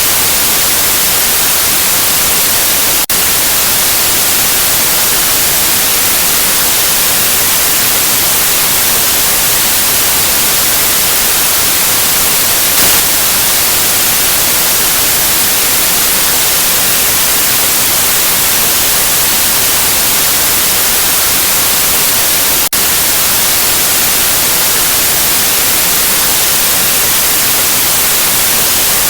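Generated white noise: a steady, even hiss that is strongest in the high frequencies. It drops out for an instant twice, about three seconds in and again near the end.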